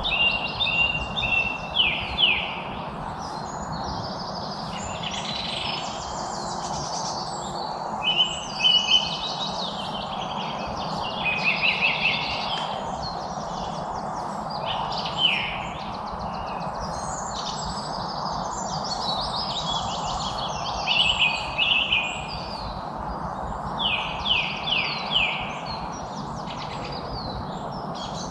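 Songbirds singing and chirping in short phrases of quick, high notes that come every few seconds, over a steady background hiss of outdoor ambience.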